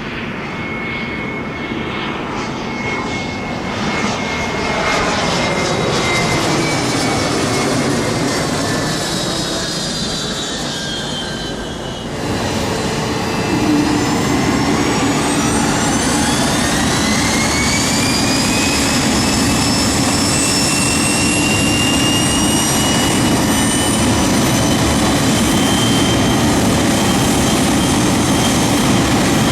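Jet aircraft engines. A whine falls in pitch over the first twelve seconds, then the engines spool up with a steeply rising whine and hold at high thrust, loud and steady, typical of a jet opening up to takeoff power at the runway end.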